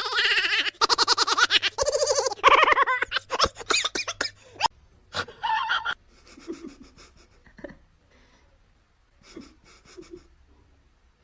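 A person laughing loudly in rapid bursts for about five seconds, then dying down to faint sounds.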